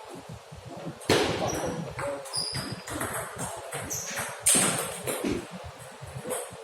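Table tennis ball clicking off bats and table in a series of sharp knocks, with two louder hits, about a second in and about four and a half seconds in, ringing in the hall.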